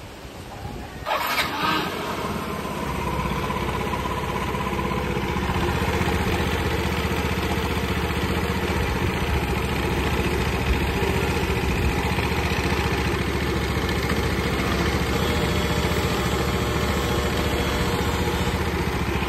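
Yamaha New Cuxi 100 fuel-injected single-cylinder scooter engine starting about a second in, then idling steadily.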